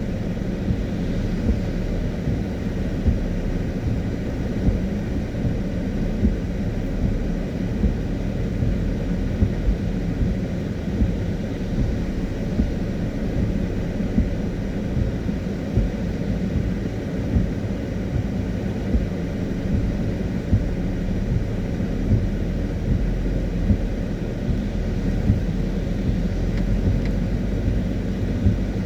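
Car driving on a wet road: a steady low rumble of engine and tyres, with a light knock about every second and a half.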